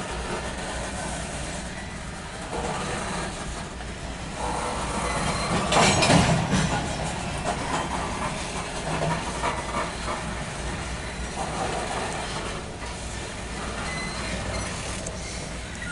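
Loaded CSX coal train's hopper cars rolling past: a steady rumble and clatter of steel wheels on rail, louder for a moment about six seconds in.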